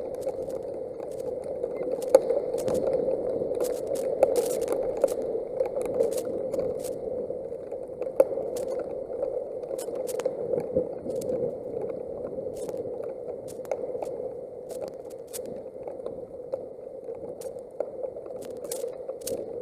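Heavy thunderstorm rain and strong wind on an outdoor nest camera's microphone: a steady rushing noise, peppered with many sharp ticks and crackles.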